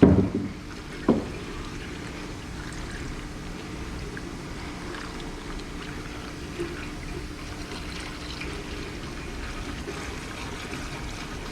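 Engine oil from a 2020 Nissan Kicks pouring steadily from the open drain-plug hole into a drain pan. The drain plug has just been removed. Two brief knocks come at the very start and about a second in.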